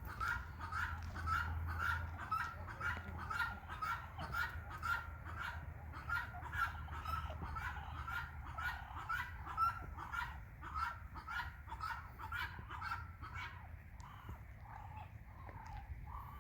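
Birds calling in a quick, steady series of short honk-like calls, about two a second, fading over the last few seconds.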